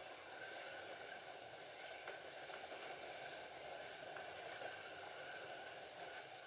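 Several Scalextric slot cars lapping the track, their small electric motors giving a steady, faint whirr with a light hiss from the wheels on the plastic track.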